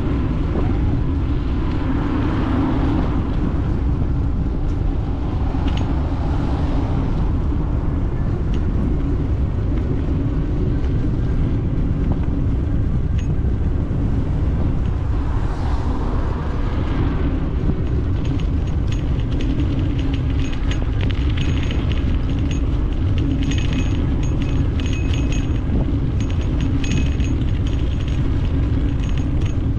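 Steady low rumble of wind buffeting the microphone and tyre noise from a bicycle ride, with a run of rapid light ticking in the second half.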